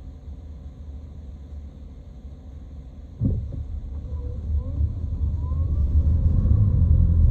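Low vehicle rumble that jumps suddenly louder about three seconds in and keeps building toward the end, with faint rising whines over it.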